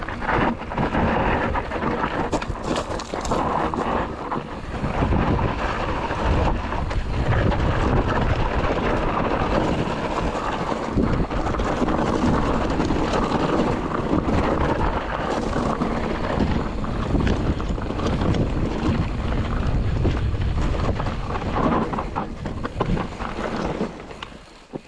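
Wind buffeting an action camera's microphone over the rattle and knocking of a mountain bike ridden fast down a rough trail, its tyres running over dirt and rock; it eases off about a second before the end.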